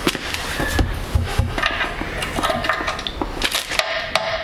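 Irregular knocks, clicks and scraping as parts are handled and worked by hand with tools, while something is being made to fit and does not go.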